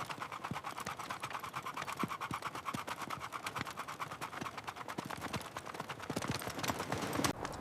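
A rapid, even run of sharp clicks or taps.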